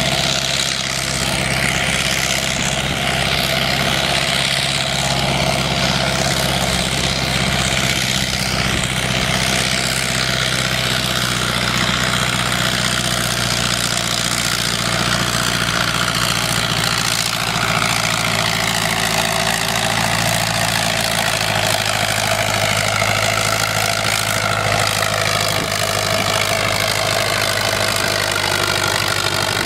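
A tractor engine running steadily at a tractor pull, loud and even, with no big revs or pulls.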